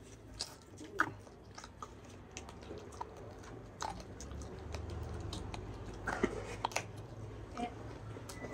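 A man chewing a mouthful of food, with many short, scattered mouth clicks over a low steady hum.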